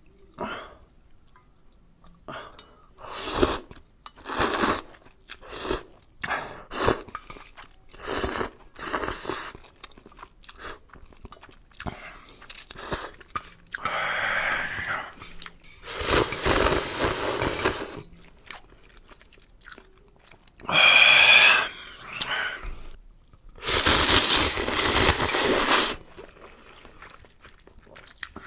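Close-miked eating of instant ramyeon noodles: a run of short chewing and biting sounds, then several long slurps of noodles and broth of one to two seconds each, one with a whistling edge.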